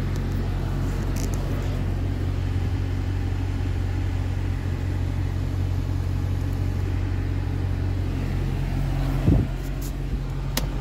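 Car engine running steadily, heard from inside the cabin, with one thump about nine seconds in.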